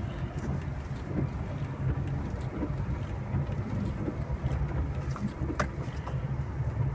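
A vehicle driving, heard from inside as a steady low rumble, with a few light ticks and knocks.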